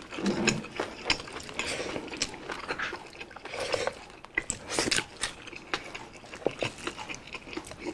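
People eating boiled beef shank and vegetables with their hands: chewing and lip smacking with many small wet clicks.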